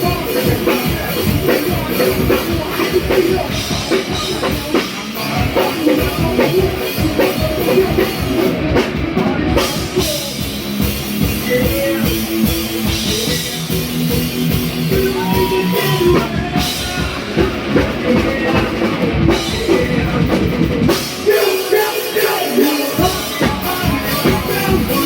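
Live rock band playing hard, with a driving drum kit and electric guitars; held chords sit under the drums midway, and the bass and kick drop out for a couple of seconds near the end before the full band comes back in.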